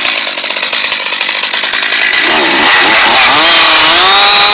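Chainsaw engine running, firing unevenly at first, then revving up with wavering pitch and holding a steady high speed from about four seconds in.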